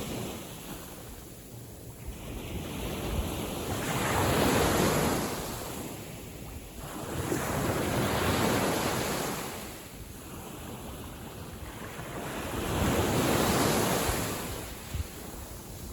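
Gentle sea waves breaking and washing up the shore on a calm sea, swelling and fading about every four to five seconds, three surges in all.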